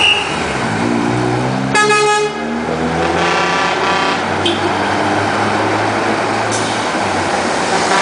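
Truck engine running steadily as trucks pass, with a short horn blast about two seconds in and a second, longer horn sounding from about three to four seconds in.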